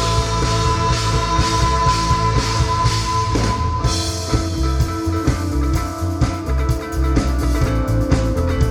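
Live rock band playing an instrumental passage: electric guitar, bass guitar and drum kit.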